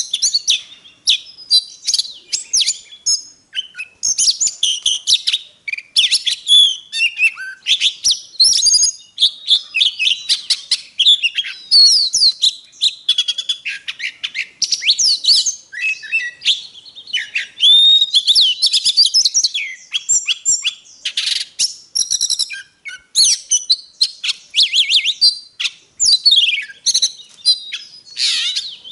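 Oriental magpie-robin singing a long, varied song of rapid whistled notes, rising and falling sweeps and trills, with hardly a pause.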